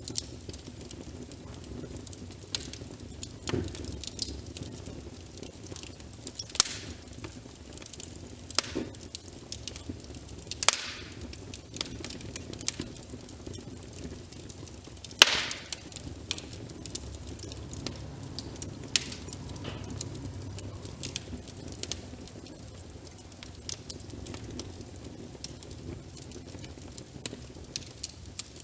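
Wood fire crackling, with irregular sharp pops and snaps, the loudest about fifteen seconds in, over a steady hiss of rain.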